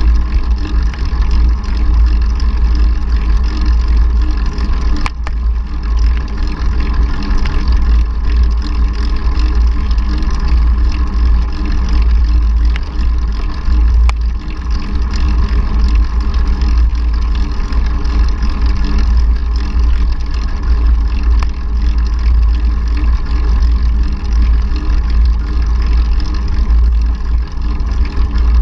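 Wind buffeting the microphone of a camera riding along on a mountain bike: a loud, steady low rumble with the hiss of movement, broken by a few sharp clicks.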